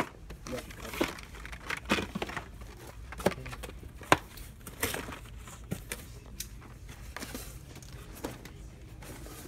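Plastic-and-card toy car packaging rustling and crinkling as it is handled, with irregular sharp clicks and knocks, the loudest about four seconds in.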